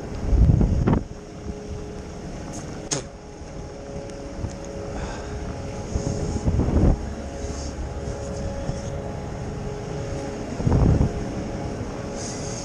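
Steady hum of city traffic or a running engine, with two held tones. Three short gusts of wind rumble on the microphone, the loudest things heard, and there is a brief click a few seconds in.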